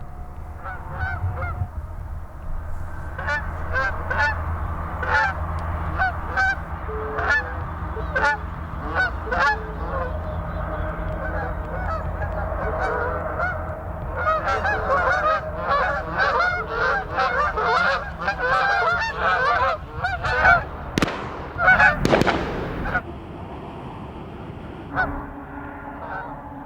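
A flock of Canada geese honking, many overlapping calls that grow into a dense chorus in the middle. Near the end, two loud bangs about a second apart stand out above the calls.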